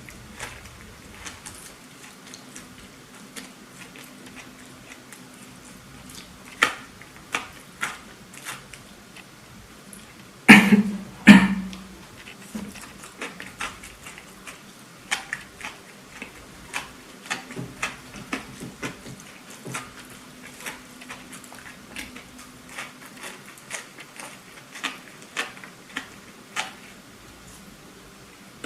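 Close-miked eating of a burger: chewing and wet mouth clicks, scattered through, with two much louder bites about ten and eleven seconds in.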